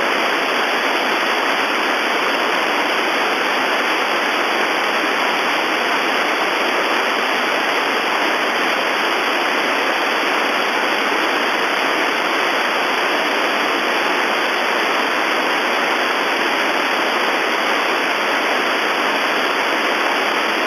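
Steady radio hiss on an air-traffic-control frequency, with no voices and no reply to the controller's calls to Ukraine International 752.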